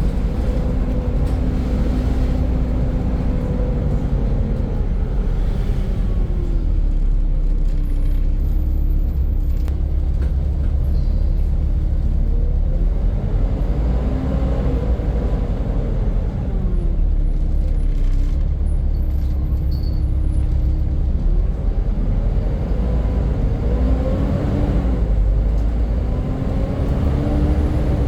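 Volvo B7 double-decker bus running under way: its diesel engine rumbles throughout, and a loud 'hoover' whine rises and falls in long sweeps several times as the bus accelerates and eases off.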